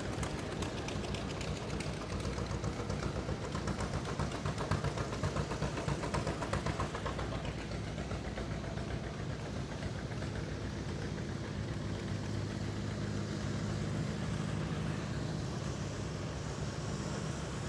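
Farm tractor engines running as the tractors drive past. For the first several seconds one engine has a rapid, even firing beat, loudest around five to seven seconds in; after that a steadier engine drone takes over.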